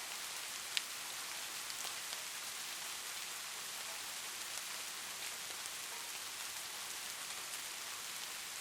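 Steady rain falling, an even hiss with scattered drops ticking; one sharper drop hits just under a second in.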